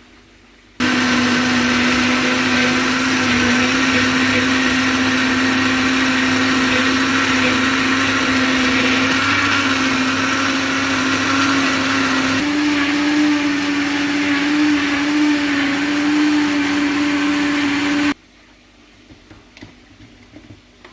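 Electric kitchen blender running steadily with a loud motor hum. Its pitch steps up slightly about twelve seconds in, and it is switched off abruptly near the end.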